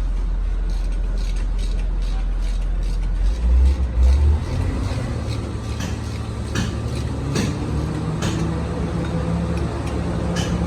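Rebuilt Komatsu 6D105 six-cylinder diesel engine running on test, speeding up with a brief surge about three to four seconds in, then holding a steady higher speed, with scattered sharp clicks over the running.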